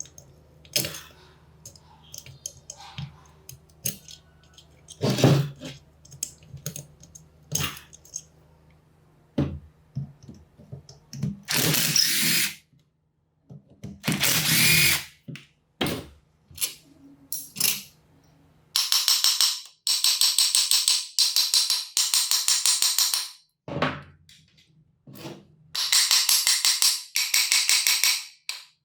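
Workshop handling sounds: scattered clicks and knocks of metal parts, and two short bursts of hissing noise. Then a power tool runs with a fast, even pulsing in two bursts, about four seconds and then about three seconds long.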